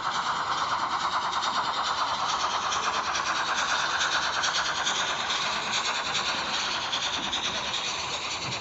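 HO-scale model train running on its layout track: a steady rushing rattle of wheels on rail, with a motor whine that slowly drifts up in pitch.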